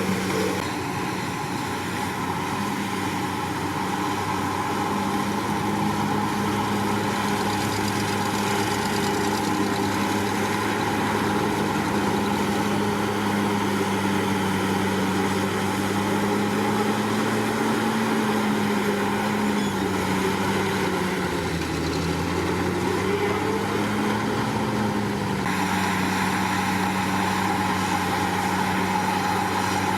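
Komatsu D61PX bulldozer's diesel engine running steadily under work, its note rising slightly and then dipping briefly about two-thirds of the way through.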